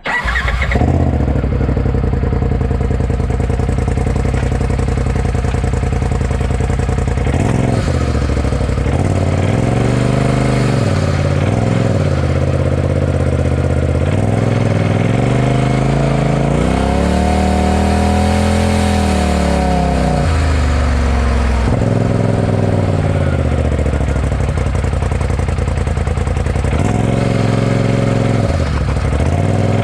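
Turbocharged Polaris RZR Pro XP side-by-side running through an aftermarket Gibson exhaust. It holds an even pitch for about seven seconds, then revs up and falls back several times as it accelerates and lets off, with the longest pull in the middle.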